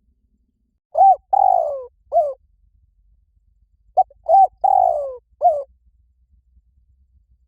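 Spotted dove cooing: two song phrases about three seconds apart. Each is a short coo, a longer coo falling in pitch and a closing short coo, with an extra short note at the start of the second phrase.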